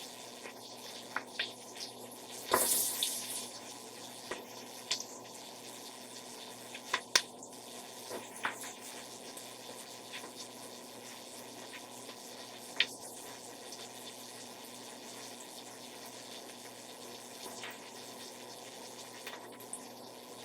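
Chopped red onion sizzling steadily in hot olive oil and butter in a pot, with a few sharp knocks of a utensil against the pot, the loudest about two and a half seconds in.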